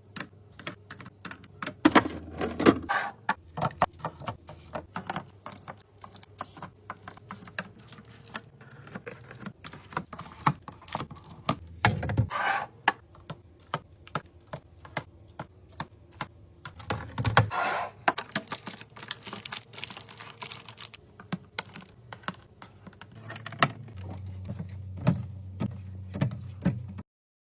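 Dense, rapid clicking and tapping of fridge-restock items (plastic and glass containers, lids and packaging) being handled and set down, with a few longer, louder stretches of handling noise. It stops suddenly near the end.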